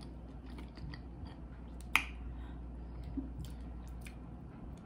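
Eating seafood: chewing with scattered wet mouth clicks and smacks, and one sharper click about two seconds in.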